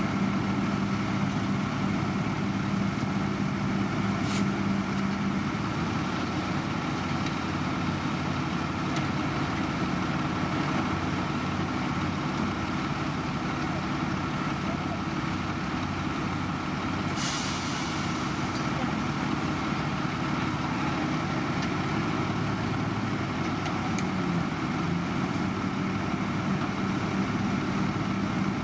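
Heavy diesel road-construction machinery running steadily at a constant engine speed. About seventeen seconds in there is a short hiss of released air, like a truck's air brake.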